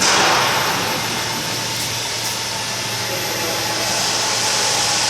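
Steady rushing noise like a fan or air blower, loudest for a moment at the start and then holding even, with a faint steady tone running through it.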